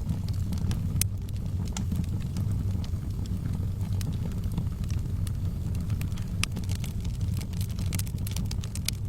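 Wood fire burning in a fireplace: a steady low rumble of the flames with sharp crackles and pops scattered throughout, coming thicker near the end.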